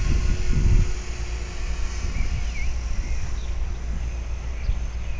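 Wind buffeting the microphone in a low rumble, gusting hardest in the first second and then easing to a steady rumble. Under it runs the faint steady high whine of a 450-size electric RC helicopter flying at a distance.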